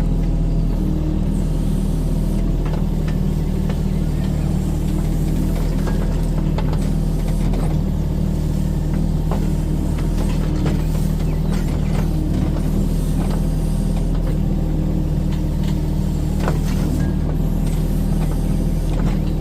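Kubota mini excavator's diesel engine running steadily under work, with scattered sharp clicks and knocks from the machine and its skeleton bucket.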